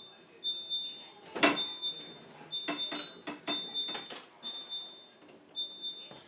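Refrigerator door-open alarm beeping, a short high-pitched beep about once a second, the sign that the door has been left open. Knocks and clatters of things being handled in the fridge, the loudest about a second and a half in.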